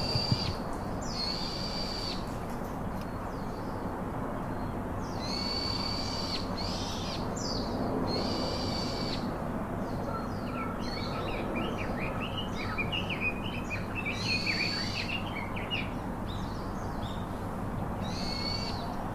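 Pet parakeets calling: calls about a second long repeated every few seconds, with a stretch of quick chirping chatter from about ten to sixteen seconds in, over a steady low hum.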